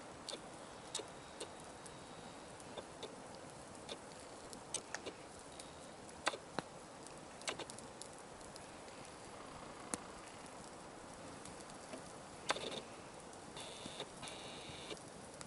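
Campfire crackling, with irregular sharp pops and snaps of burning wood, and a brief high squeak near the end.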